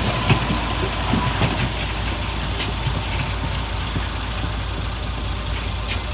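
Diesel engine of heavy earthmoving machinery running steadily, with a few knocks and clanks in the first second or two and a sharp click near the end.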